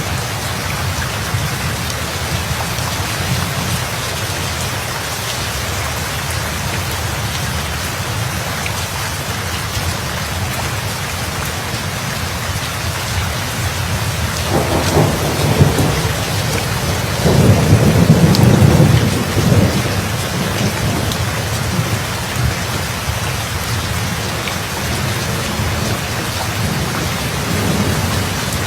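Steady rain falling with thunder rumbling: a first rumble about halfway through, a louder, longer one a few seconds later, and another starting just at the end.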